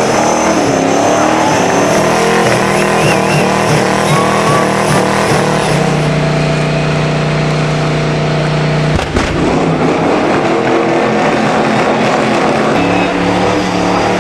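American V8 engine at high revs during a burnout, the revs held steady from about six seconds in. A sudden short break comes just after nine seconds, then the engine runs steady again near the end.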